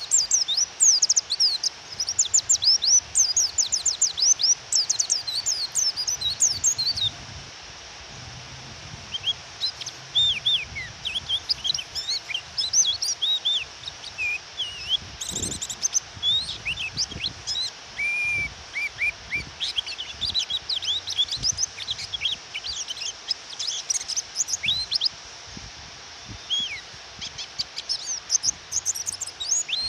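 Female white-eye (pleci) calling with rapid high chirps and twitters, dense for about the first seven seconds and then more scattered, over a steady hiss of rain. It is a call used to provoke male white-eyes into answering.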